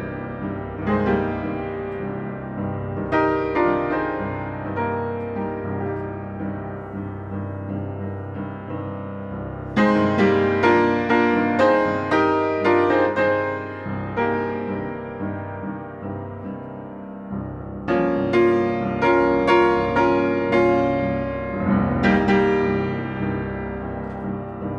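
Solo piano playing: struck notes and chords left ringing, with louder runs of repeated notes starting about ten seconds in and again about eighteen seconds in.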